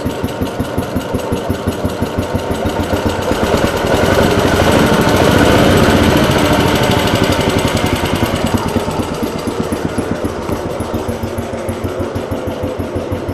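Small L-3/2 engine running with an even, rapid firing beat. About four seconds in it speeds up and grows louder for a few seconds, then settles back to its earlier pace.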